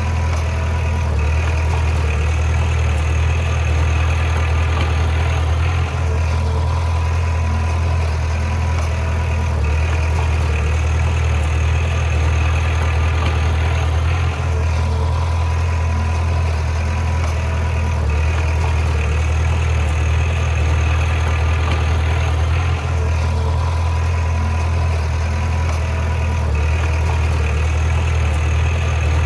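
Bulldozer's diesel engine running steadily with a deep hum, the higher sound easing briefly every few seconds.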